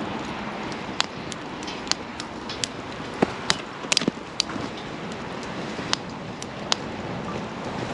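Wood campfire burning, with irregular sharp crackles and pops over a steady rushing noise, a quick cluster of pops about four seconds in.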